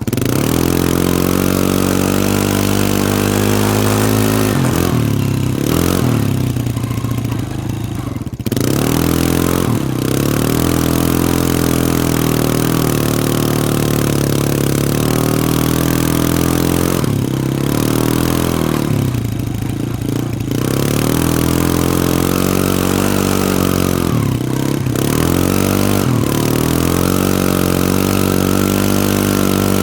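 Can-Am ATV engine running hard on the throttle, its pitch dropping off and climbing back up about four times as the rider lets off and gets back on the gas.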